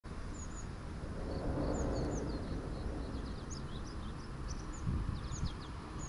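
Small birds chirping, with many short, quick high notes scattered throughout, over a steady low outdoor rumble.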